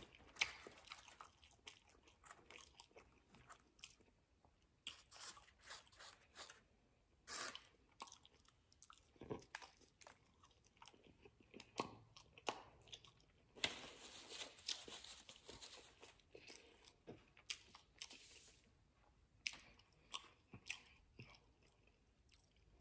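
Fried chicken wings being bitten and chewed, quietly: scattered crunches and chewing clicks with short pauses between them.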